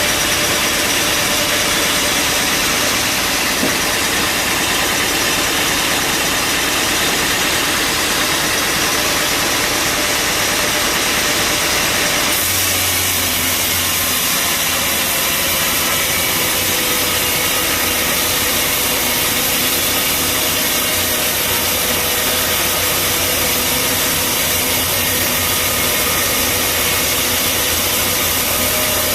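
Bandsaw sawmill machinery running steadily with a dense hiss and steady hum; the sound changes abruptly about twelve seconds in, as the deeper hum comes up.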